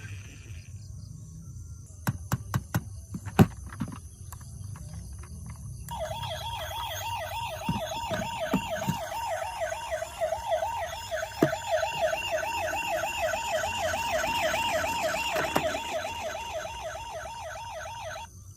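A few sharp clicks, then a toy emergency vehicle's electronic siren starts about six seconds in: a fast, steadily wavering wail that cuts off suddenly near the end.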